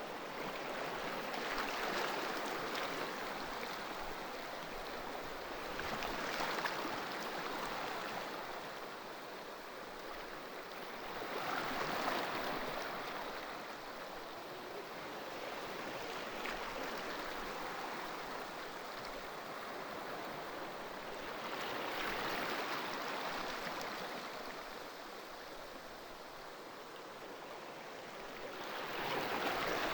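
Ocean waves breaking and washing in, a steady rush of surf that swells and fades every several seconds.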